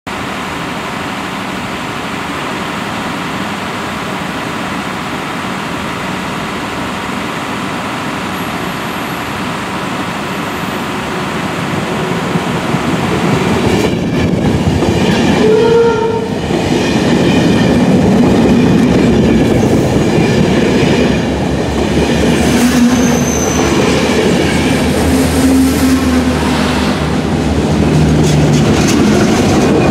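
Diesel-hauled push-pull passenger train passing close by: a steady rumble building up, then loud wheel and rail noise with clattering over the joints, and a short horn note about halfway through. Near the end comes the low drone of the NIR 201 class diesel locomotive pushing at the rear as it goes by.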